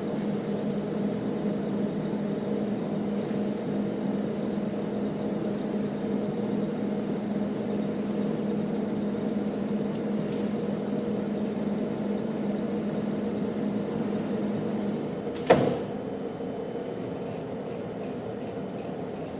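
Manual metal lathe running with a steady hum. About fifteen seconds in comes a single sharp clank, after which the hum drops lower and quieter.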